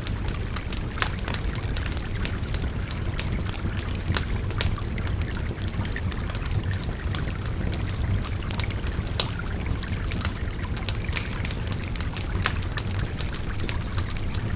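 Wood fire crackling with frequent sharp pops over the steady rush of a babbling river, one pop louder than the rest about nine seconds in.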